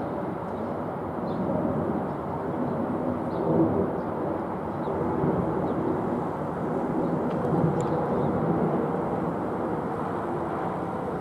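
Boeing 777's twin jet engines heard from the ground after takeoff: a steady low rumble with slow swells in loudness.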